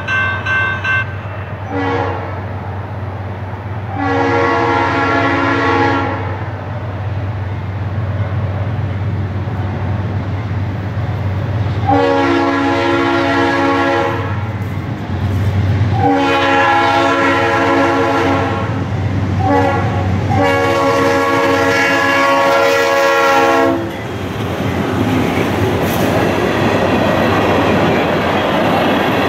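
Freight locomotive's horn sounding for a grade crossing: a few blasts early on, then two long blasts, a short one and a final long blast that ends about 24 s in, over the low drone of the locomotive. Then the freight cars roll past with a steady clatter of wheels on the rails.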